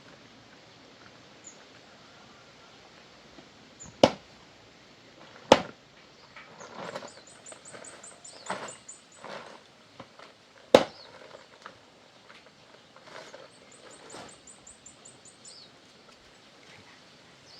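Three sharp knocks of wood being struck during hand work, with rustling and handling noises between them. Twice a rapid, very high chirping trill runs for a couple of seconds.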